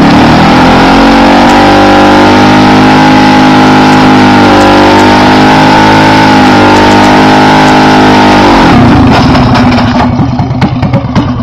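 A small dirt bike engine held at high revs at a steady pitch for about eight seconds, then the revs fall away and an uneven clatter follows near the end.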